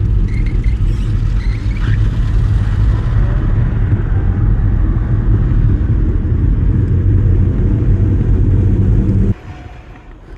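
Steady low rumble of wind buffeting the microphone of a camera on a moving e-bike. It drops off suddenly about nine seconds in.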